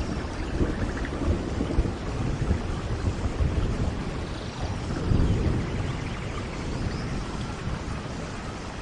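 Steady rain with thunder rumbling low underneath, swelling about a second in and again around five seconds, with faint high chirps above.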